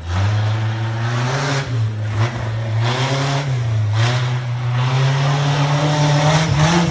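Ford Ranger pickup's engine revving hard under load, its pitch rising and dipping several times and climbing toward the end.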